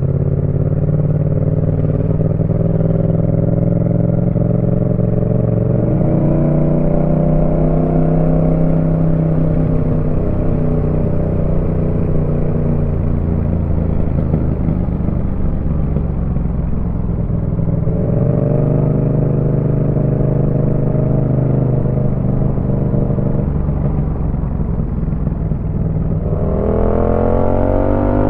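Yamaha MT-07's 689 cc parallel-twin engine running through a Roadsitalia aftermarket exhaust while riding. The revs are held fairly steady for most of the time with small shifts, then climb sharply near the end as the bike accelerates.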